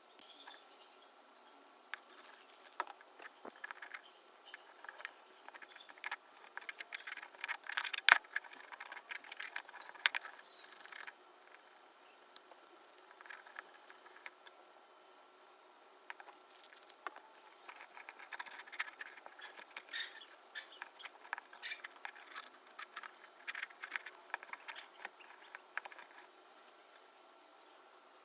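Small handling noises from hand work: irregular light clicks, scrapes and rustling, with one sharp click about eight seconds in and a quieter pause in the middle.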